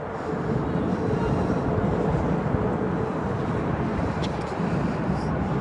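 Steady low outdoor rumble with a faint steady hum, and a couple of small clicks about four seconds in.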